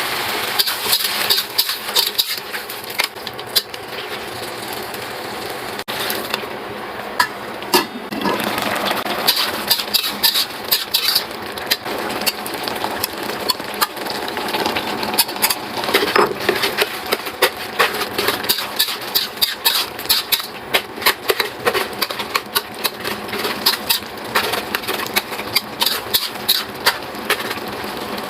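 Kitchen utensils clicking and tapping rapidly and irregularly during food preparation, over a steady hiss.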